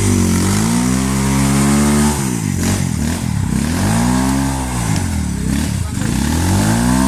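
Trail motorcycle engine revving hard and dropping back, over and over: the pitch climbs for a second or two, falls away, then climbs again, about three times. This is the sound of a bike struggling to get up a steep, wet climb.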